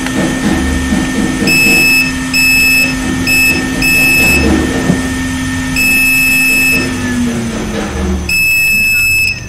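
A digital multimeter's continuity buzzer beeping six times as the probes touch the rectifier bridge, each beep high-pitched and about half a second to a second long: the sign of a shorted bridge rectifier. A steady low hum underneath drops in pitch and fades about eight seconds in.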